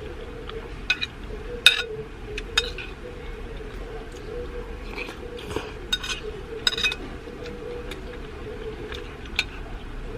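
Cutlery clinking against dishes while eating: a scattered series of sharp clinks, the loudest about two seconds in and again near seven seconds, over a steady hum.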